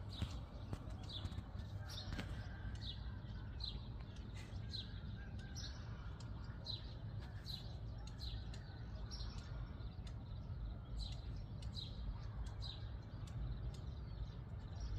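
A bird chirping over and over: short, high, falling notes, somewhat under two a second, over a low steady rumble.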